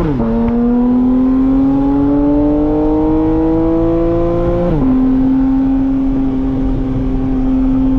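A car engine accelerating through the gears: its note climbs slowly, drops sharply with an upshift right at the start and again about five seconds in, then holds a steady pitch at cruise.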